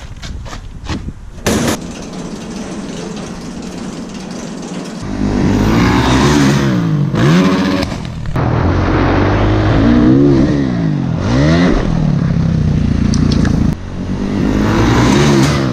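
Motocross bike engine revving up and down over and over, starting about five seconds in. Before that there are a few sharp clicks and knocks over a steady background.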